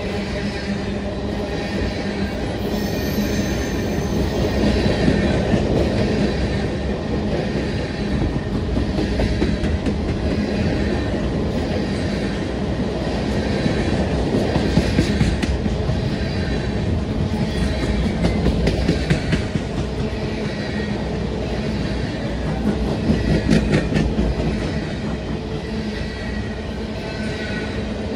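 Covered hopper cars of a freight train rolling past close by: a steady rumble and clatter of steel wheels on rail, with a thin, high wheel squeal at times and a few sharp clanks.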